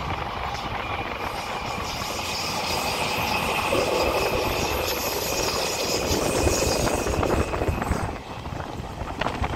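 Taipei Metro electric train running on the track, wheel and rail noise with a steady high whine that stops about eight seconds in.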